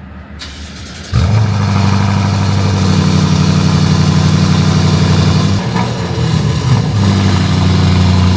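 BMW M550i's N63 twin-turbo V8 starting about a second in and settling into a loud, steady idle through an exhaust with the muffler and both resonators cut off. The sound dips briefly midway, then steadies again.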